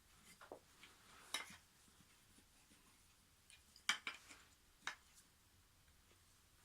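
Wooden toy train track pieces clicking and knocking as they are handled and fitted together, a few sharp taps spread over the quiet, the loudest a little under four seconds in.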